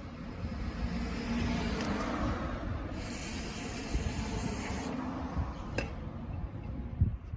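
A hissing spray in one burst of about two seconds, starting and stopping sharply, over rubbing and handling noise, with a knock near the end.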